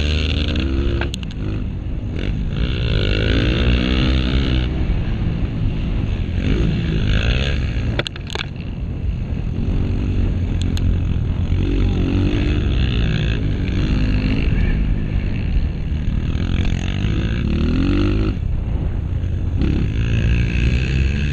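Honda CRF230 dirt bike's single-cylinder four-stroke engine under race riding, its pitch climbing and dropping again and again as the throttle is opened and closed. A few sharp knocks come through, about one, eight and eleven seconds in.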